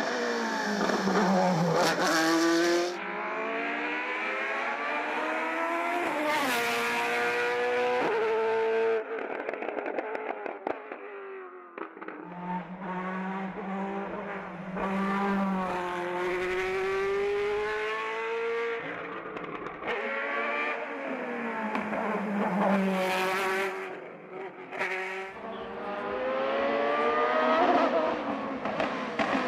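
Race car engine at full throttle on a hillclimb, revving up through the gears, its pitch climbing and dropping back at each shift. It eases off and picks up again several times for corners.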